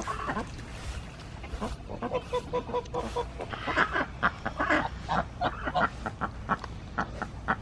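Domestic ducks and geese calling: a busy run of short, repeated honks and quacks that grows thicker after about two seconds.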